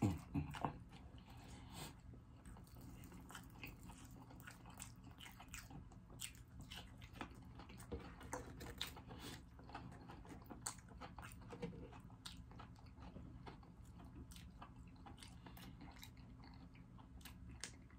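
Faint close-miked chewing of pancake-battered fried chicken: scattered small crunches and wet mouth clicks, with a few louder bites just after the start.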